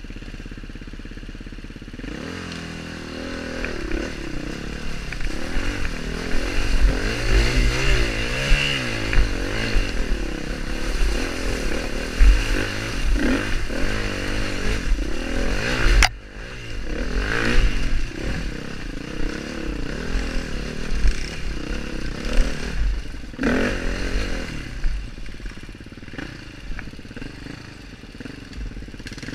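KTM dirt bike engine ticking over steadily, then from about two seconds in revving up and down over and over as the bike is ridden through mud, with knocks and clatter mixed in. A sharp click about halfway through, after which it runs on at lower revs.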